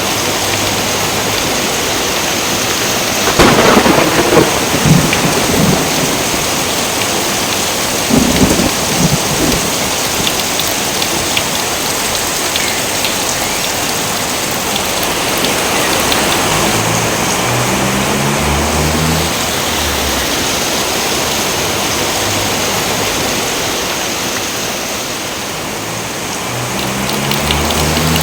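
Steady heavy rain falling, with two rolls of thunder rumbling in, about three seconds in and again about eight seconds in.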